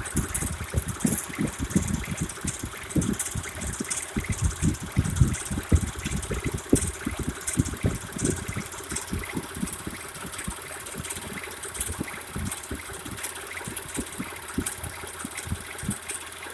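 Petrol Mitsubishi Pajero 4 engine running with its timing belt squeaking in fast, irregular chirps, many a second. The owner suspects a defective belt.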